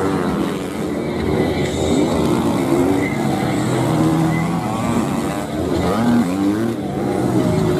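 Several motocross bike engines running and revving, their pitch rising and falling over one another.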